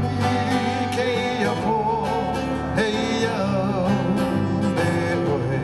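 Live Hawaiian music: the instrumental introduction to a song, with strummed acoustic guitar chords and a wavering melody line above them.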